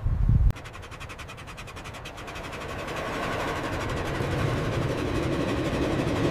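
A train going by, its noise growing slowly louder. It opens with a loud low burst that cuts off suddenly about half a second in.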